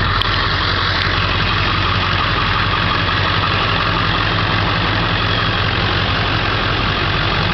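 Ford 7.3-litre Powerstroke turbo diesel V8 idling steadily, with the air-conditioning blower running at a steady rushing hiss over it.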